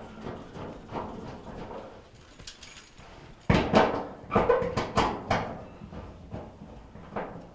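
Knocks, clicks and clatter of sheet-metal dryer cabinet parts being handled and fitted back together, with light clicking at first and a run of sharp knocks about halfway through.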